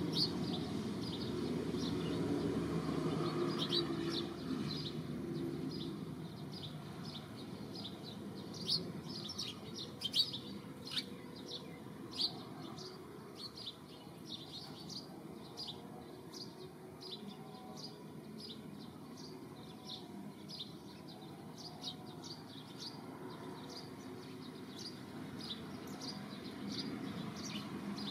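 Small birds chirping: many short, sharp chirps, busiest around the middle. In the first few seconds they sit over a low hum that then fades.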